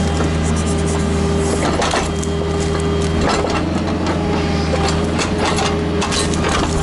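Kubota KX121-3 mini excavator's diesel engine running steadily under load, with repeated knocks and cracks of wood being handled or broken.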